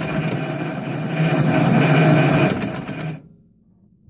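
1935 Pierce-Arrow engine running on its first fire, growing a little louder around two seconds in, then stopping abruptly about three seconds in.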